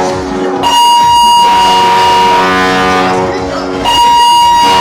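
A cruise ship's musical horn sounding a tune of loud, long held notes. Each brassy chord lasts a second or two before the next pitch.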